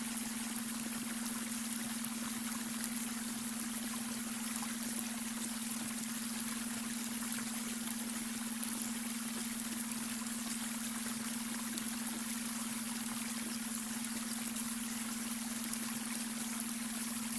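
Brook babbling steadily, with a steady hum of a beta brainwave tone mixed underneath.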